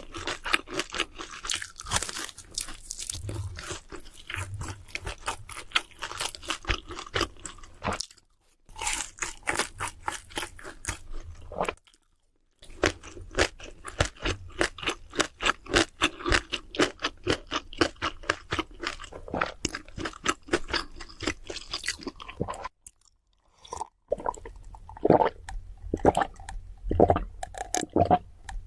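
Close-miked crunching and chewing of crispy fried food, dense irregular crunches in quick succession, breaking off abruptly a few times. Near the end the chewing turns wetter.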